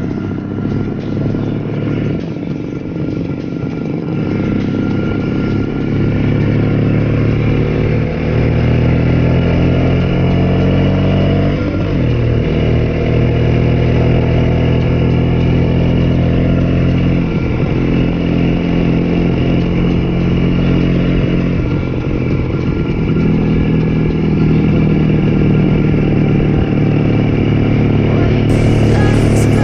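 Vintage ČZ single-cylinder two-stroke motorcycle engine running on the road, its pitch rising as it accelerates and dropping briefly at gear changes about twelve and seventeen seconds in. Wind rushes on the microphone.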